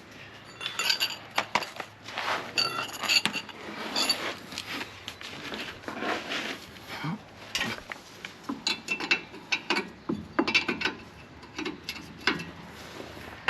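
Metal hand tools and parts clinking and clanking in irregular sharp knocks with a brief metallic ring, with a few quick runs of clicks, during removal of a rear shock absorber's bottom bolt.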